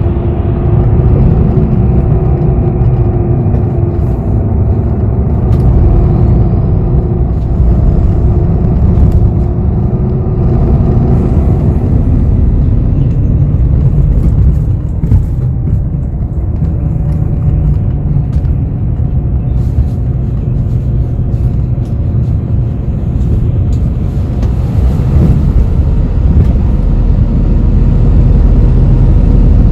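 Bus interior while riding: a steady low engine and road rumble, with the engine's hum holding a steady pitch at first and then falling in pitch about halfway through. Light clicks and rattles come through on top.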